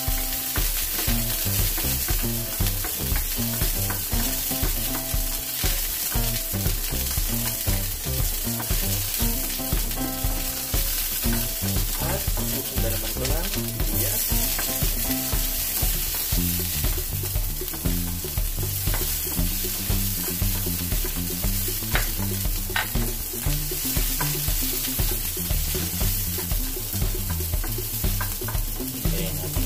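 Garlic cloves sizzling steadily in hot oil in a nonstick frying pan, with sliced red onions tipped in about halfway through and stirred with a spatula, a few light clicks of the spatula on the pan. Background music with a steady beat plays under the sizzle.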